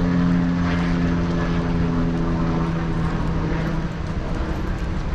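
Propeller aircraft engine droning overhead, a steady hum that fades away about four seconds in.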